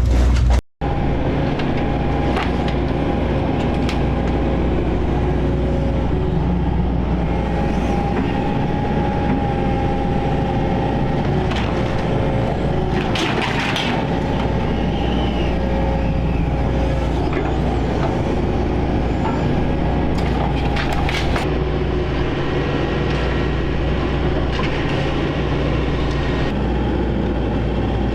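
Excavator engine running steadily with a level whine over a low rumble, and a few short crashes of demolition debris, one about halfway through and another some seconds later.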